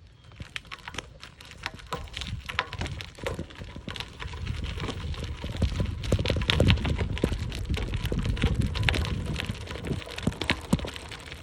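Bicycle tyres crunching and crackling over the trail surface as the bike gets moving, with a low rumbling ride noise that grows louder from about four seconds in.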